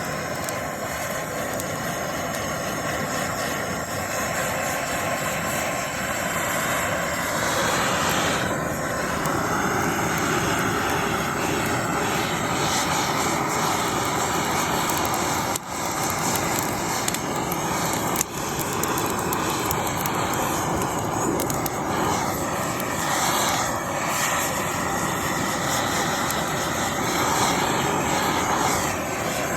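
Gas blowtorch flame running steadily as it scorches pine cladding, dipping briefly twice about halfway through.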